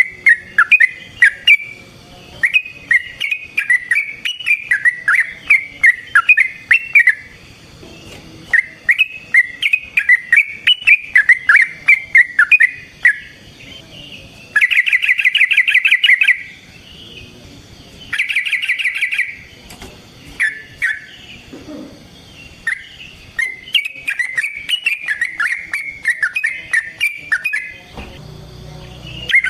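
Yellow-vented bulbul singing: a run of quick, bubbly, warbling phrases, broken twice near the middle by long rapid chattering rolls of about a second and a half each.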